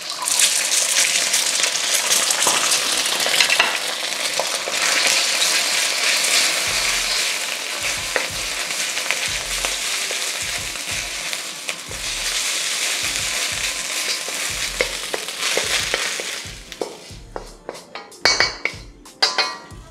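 Beaten egg sizzling and frying in a smoking-hot wok while being stirred. The sizzle dies down after about sixteen seconds, and a run of sharp knocks and clinks follows.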